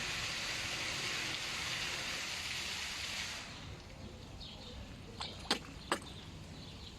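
Steady rushing, splashing water that stops abruptly a little over three seconds in, followed by a few sharp clicks about two seconds later.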